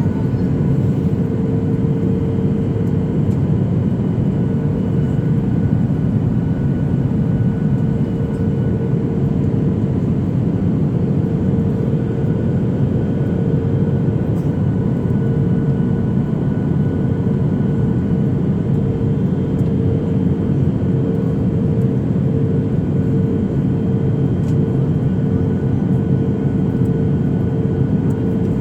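Airliner cabin noise heard from inside the passenger cabin: a steady rush of engine and airflow with a constant humming tone over it.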